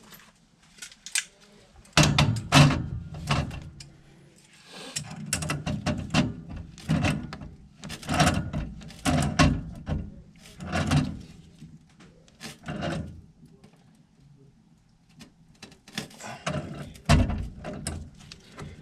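Hand tools and metal gas-pipe fittings knocking and clanking as they are handled and worked, in an irregular series of sharp knocks with short quiet gaps.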